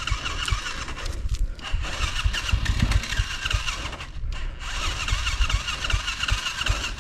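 Dirt bike engine starting and running, over irregular low knocks and rumble.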